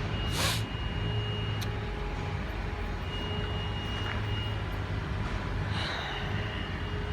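GWR Class 802 bi-mode train standing with its underfloor diesel engines running, a steady low hum with faint whining tones above it. A short hiss of air comes near the start and a single click follows.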